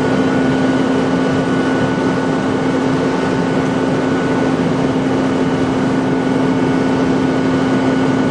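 Steady drone of idling vehicle engines with a constant low hum, unchanging throughout.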